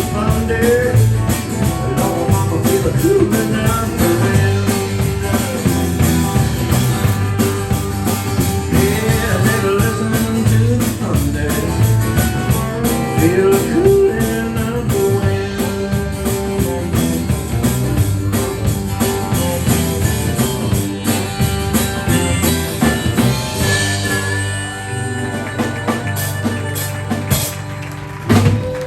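Live band music playing the song's closing stretch, thinning out in the last few seconds.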